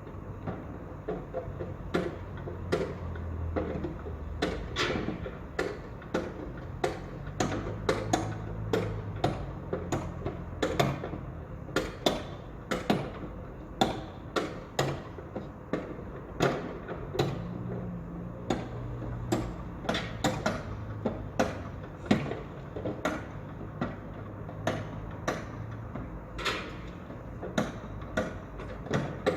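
Construction site: irregular knocks and clanks, one to three a second, over a low, steady machine rumble.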